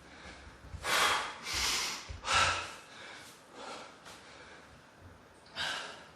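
A man breathing hard, with five or six loud, irregular gasping breaths: he is out of breath from exertion after a burpee test.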